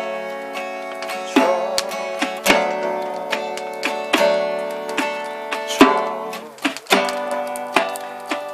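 Acoustic guitar strumming chords that ring on between strokes, a fresh strum about every second.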